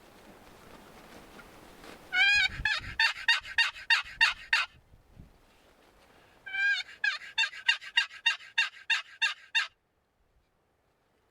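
A hunter's turkey call blown in two runs of evenly spaced hen-turkey yelps, about four notes a second, each run lasting about three seconds, to make distant gobblers answer. Wind hisses faintly underneath, and the sound cuts off suddenly near the end.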